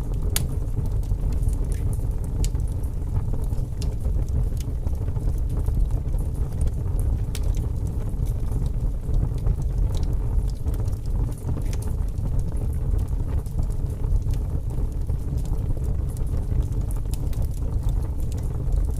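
Fire burning in a fireplace: a steady low rumble with scattered sharp crackles and pops throughout.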